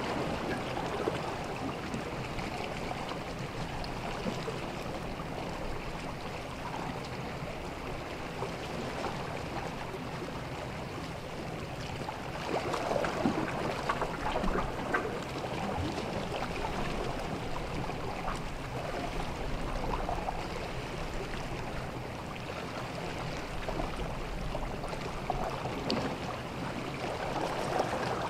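Small sea waves washing and lapping on a beach, swelling louder about twelve seconds in and again near the end.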